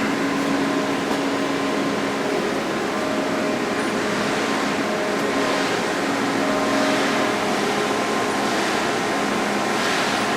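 Mori Seiki Frontier L1 CNC turning center running steadily, a constant machine hum made of several steady tones over an even whir.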